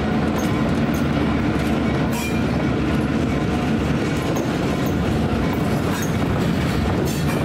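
Diesel freight train rolling past close by, its locomotives running and loaded granite gondola cars clacking over the rail joints, with a faint wheel squeal now and then.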